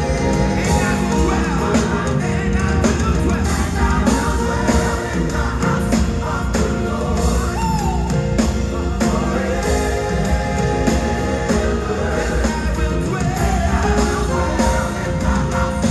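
Live gospel choir singing with a full band: drums keeping a steady beat under sustained choral lines.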